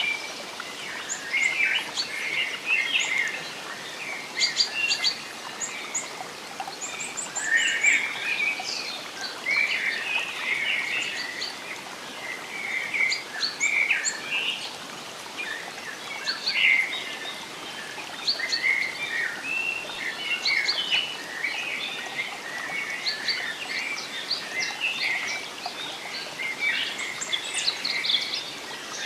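Several birds singing and chirping in a forest, with short trills and calls following one another, over a faint steady hiss.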